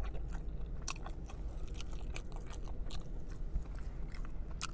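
A man chewing a mouthful of sandwich up close, with irregular wet mouth clicks and smacks and a sharper click near the end.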